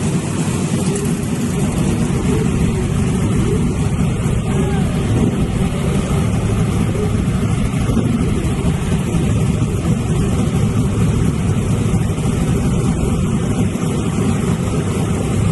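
Modified pickup truck's engine running loud and steady during a tire burnout, with a continuous rushing noise over it.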